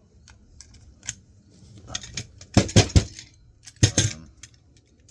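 Metal tools and hard-drive parts clicking and clattering as the drive is pried apart. Three sharp knocks come close together near the middle, then two more about a second later.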